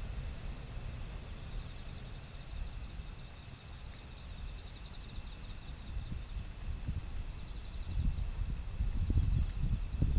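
Gusty typhoon wind rumbling on the microphone, stronger near the end, with insects trilling faintly throughout.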